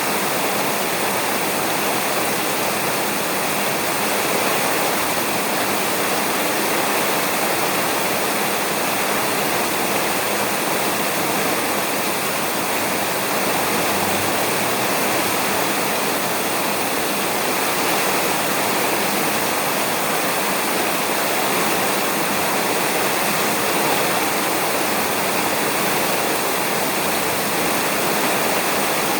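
Heavy rain falling steadily on a roof, an even, unbroken hiss with no pauses.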